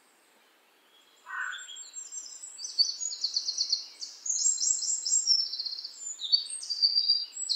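Birds chirping and trilling in quick, high, overlapping phrases, starting about a second in after a moment of silence.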